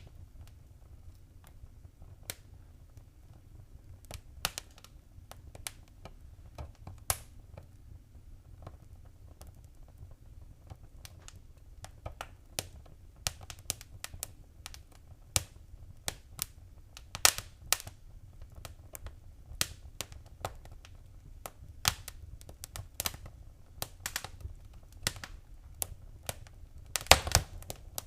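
Wood fire crackling: irregular sharp snaps and pops over a low, steady rumble of flame. The snaps come sparsely at first, grow more frequent after the first ten seconds or so, and bunch into a quick flurry near the end.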